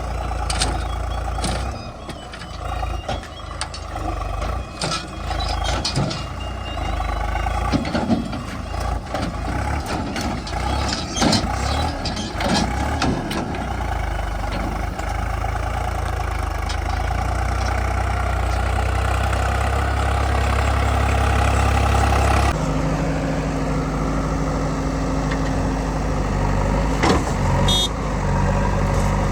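Heavy diesel machinery running steadily, with frequent short knocks and clanks in the first half. The engine sound changes abruptly about two-thirds of the way in.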